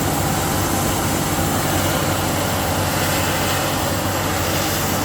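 Heavy road-construction machinery running steadily: a constant low engine hum under even mechanical noise.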